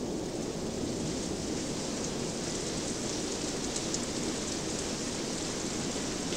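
Steady hiss of rain over a low, continuous rumble. The high hiss comes up at the start and stays even, with a few faint ticks of drops.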